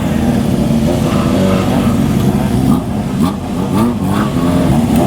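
Several motorcycle engines running, their riders blipping the throttles so the revs rise and fall again and again as the bikes ride in.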